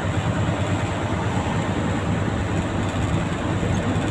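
Fuso 10DC11 tractor head's V10 diesel running steadily under way, heard from inside the cab as an even low drone mixed with road noise.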